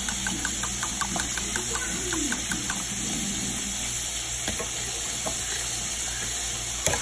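Steady frying sizzle with many small crackles from cube steaks frying in hot grease, with a metal spoon stirring thick brown gravy in a stainless saucepan as it comes to a boil. A single knock just before the end.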